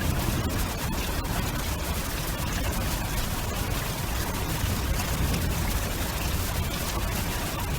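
Steady storm noise of wind and rain, a constant hiss over a low, fluctuating rumble.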